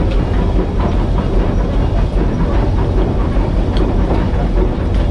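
Steam locomotive running under way, heard from the footplate, with the regulator opened a little and left set: a steady, heavy rumble with frequent small clicks and rattles of the wheels on the track.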